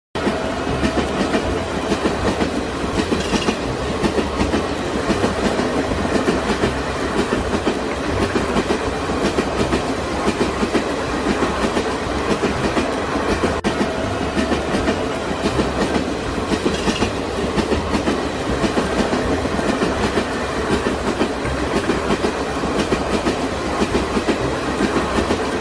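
A train running along its track with a steady clickety-clack of wheels.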